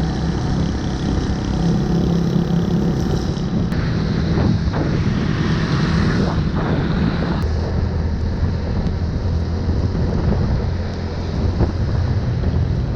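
Wind buffeting the microphone over the steady running noise of a motorbike on the move.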